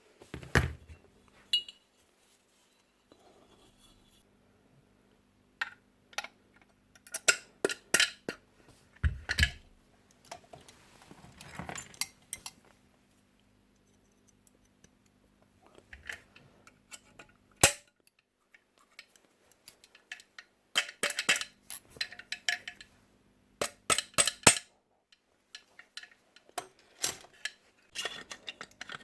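Metal parts and tools clinking and knocking in irregular clusters with short pauses, from handling and working on a Paslode IM65A nail gun. A faint steady hum runs underneath and stops near the end.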